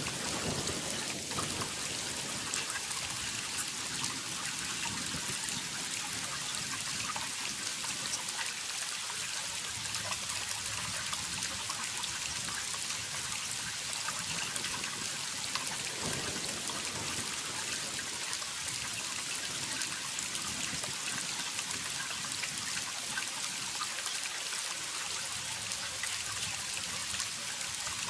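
Waterfall running steadily: an even rush of falling water, mostly a high hiss, with scattered droplet splashes.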